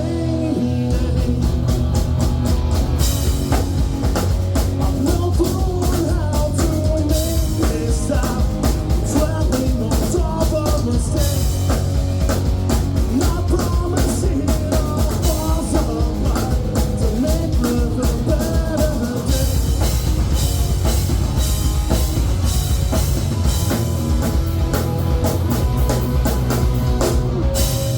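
Rock music: a band playing with a full drum kit keeping a steady beat under guitar.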